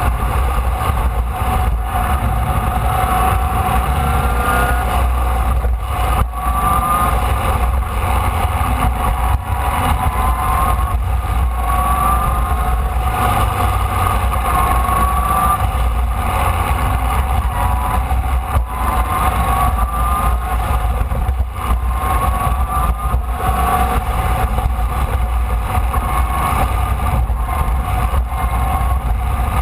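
Formula Vee's air-cooled Volkswagen flat-four engine running hard on an onboard microphone, its pitch climbing again and again as the car accelerates, over heavy wind rumble.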